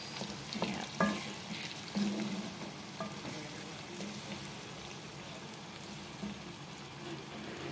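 Brain masala (tomato, onion and green chilli with boiled brain) sizzling in a frying pan as a spatula stirs it, with a few knocks of the spatula against the pan about a second apart.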